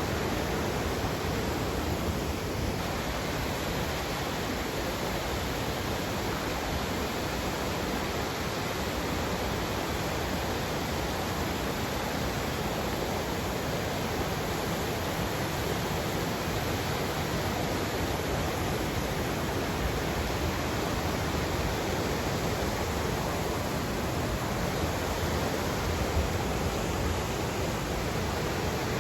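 River water rushing and flowing, a steady even noise that doesn't change.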